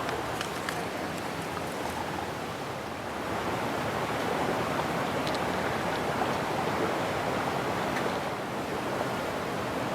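Lake water washing against the shore, a steady rushing wash that swells a little midway, with a few faint high ticks.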